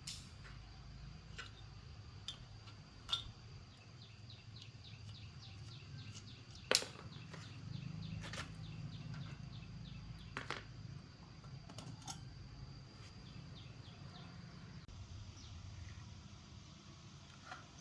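Scattered sharp clicks and light knocks of tools and small parts being handled, the loudest about seven seconds in, with a quick run of faint ticks around five to six seconds in, over a low hum.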